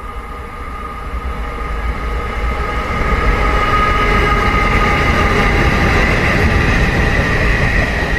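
Taiwan Railway E200-class electric locomotives at the head of a freight train passing through a station: rumble of wheels on the rails with a steady high whine, growing louder as the train approaches and loudest from about three seconds in.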